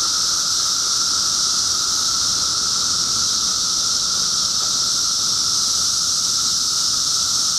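Dense chorus of periodical cicadas: a loud, steady drone that never lets up, made of a lower buzzing tone and a brighter high hiss above it.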